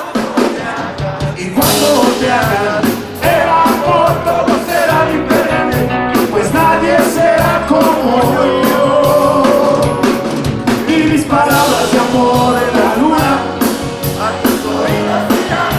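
Rock song with a male-band sound: a sung melody over electric band and a steady drum kit beat.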